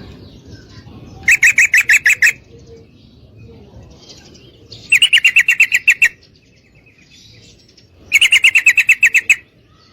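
Female yellow-vented bulbul (trucukan) calling: three rapid rattling phrases of about nine quick notes a second, each lasting a second or so, with pauses of a few seconds between them.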